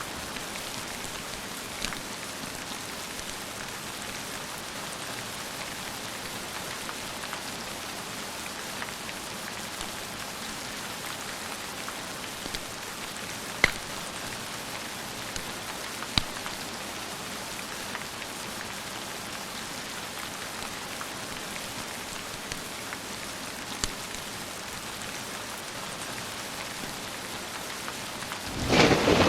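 Steady heavy rain falling, with a few sharp, isolated fireplace crackles scattered through it. Near the end a loud thunderclap breaks in and goes on rumbling.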